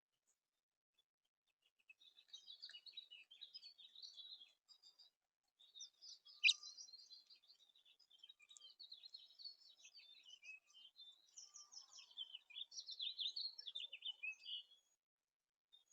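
Small songbirds chirping and twittering in a busy, overlapping stream, starting about two seconds in and stopping shortly before the end. One sharp click, the loudest sound, comes about six and a half seconds in.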